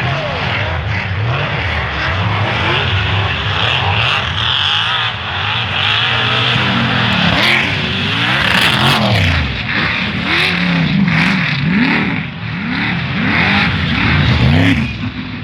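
Off-road race vehicle engines revving, their pitch rising and falling over and over, with overlapping engines heard together from about halfway through.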